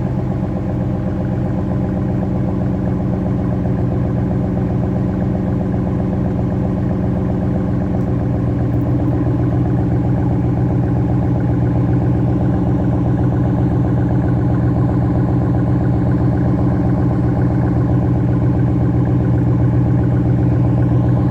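2013 Ram 1500's 5.7-litre Hemi V8 idling steadily after a cold start in below-freezing air, exhaust running through the stock resonators with the muffler deleted. The tone shifts slightly about eight seconds in and grows a little louder.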